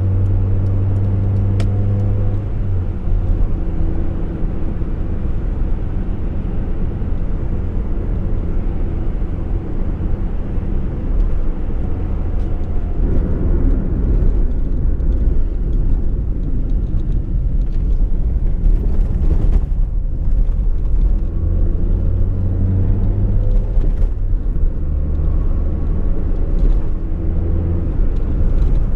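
Fiat Uno's engine running while the car is driven at low speed, its note rising and falling with the throttle over a steady low road rumble.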